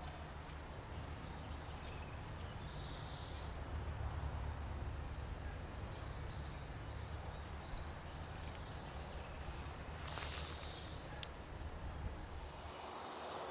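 Wild birds calling: a few short down-slurred chirps, then a brief high buzzy call about eight seconds in, over a steady low rumble of background noise.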